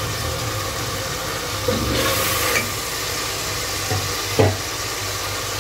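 Tomato-onion masala sizzling in oil in an aluminium pot as ground spices are stirred in with a silicone spatula, with a short knock about four seconds in.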